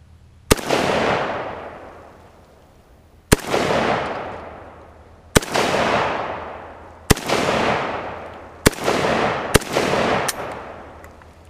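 AK-47 rifle fired seven times, one aimed shot at a time, a few seconds apart at first and then faster. Each 7.62x39 shot is a sharp crack followed by a long rolling echo that fades over a second or two. The last shot is weaker.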